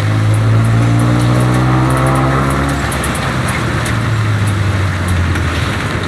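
A motor vehicle's engine running, its pitch rising gently in the first half as it speeds up, then holding steady.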